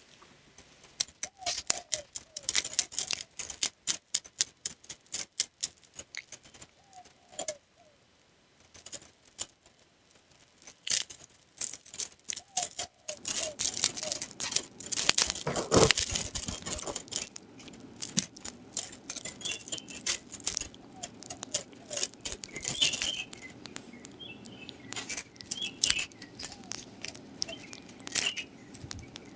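A dog chewing and crunching food close to the microphone: rapid, irregular crisp crunches in runs, with a short pause about a third of the way through.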